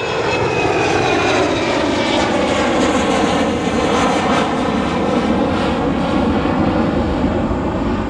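Large airliner taking off and passing overhead: a loud, steady engine rush whose tones slide slowly down in pitch and then level off as it goes by.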